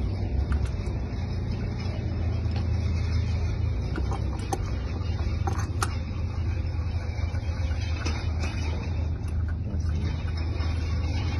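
Steady low rumble of a running motor vehicle engine, with scattered light clicks over it.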